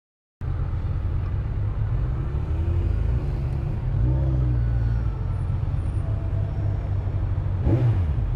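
A steady low rumble of wind buffeting a motorcycle rider's camera microphone, with the bike's engine underneath, starting abruptly about half a second in. There is a brief louder burst near the end.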